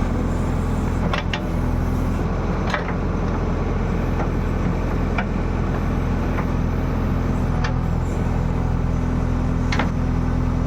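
JCB machine's diesel engine running steadily at an even speed, with a few light clicks and knocks over it.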